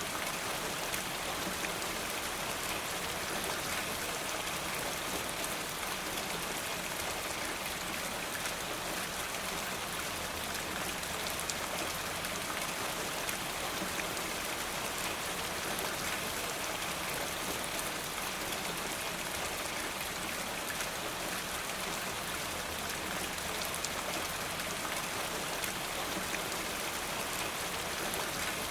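Steady rain falling: an even hiss with scattered small ticks.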